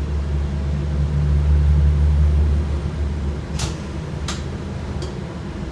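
Scania K230UB bus's 8.9-litre five-cylinder DC9 diesel engine running with a deep rumble that swells for about three seconds, then eases off. Three sharp clicks or rattles follow near the end.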